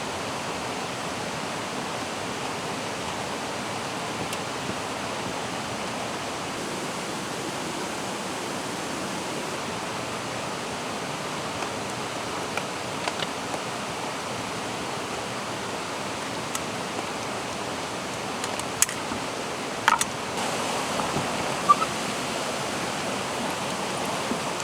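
Mountain stream rushing steadily. A few sharp clicks and knocks come through it in the last few seconds.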